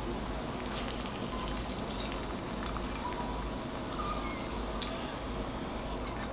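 Food frying in a pan, a steady sizzle with a few faint ticks and clinks over it.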